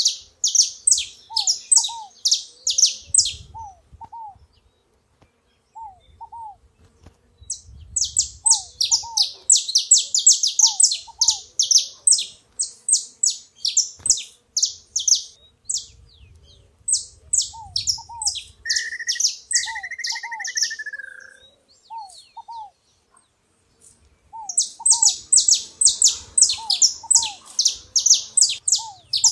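Saffron finch (canário-da-terra) singing: runs of rapid, high chirps lasting several seconds, broken by pauses of a few seconds. Another bird repeats a lower two-note call throughout, and a short whistled phrase comes in about two-thirds of the way through.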